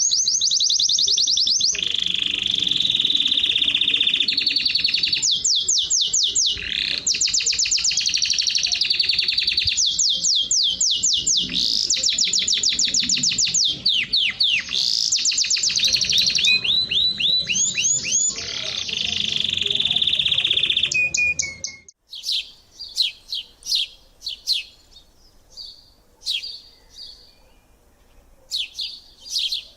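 Songbirds singing loud, rapid trills of fast repeated notes, some sliding down in pitch. About 22 seconds in, this gives way to a quieter stretch of separate, sparse chirps.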